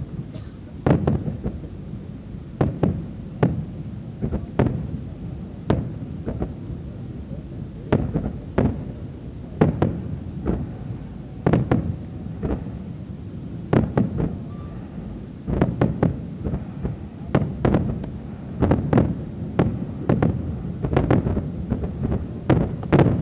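Fireworks bursting: a rapid, irregular run of sharp booms and bangs, several coming in quick clusters, each with an echoing tail over a steady low rumble.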